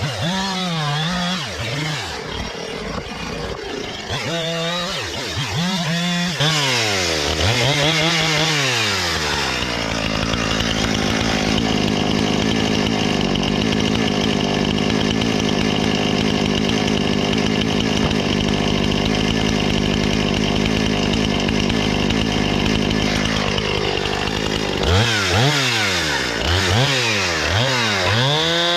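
Husqvarna 460 Rancher two-stroke chainsaw revved up and down several times, then held at a steady high pitch through a long cut of about fourteen seconds, then revved in short bursts again near the end.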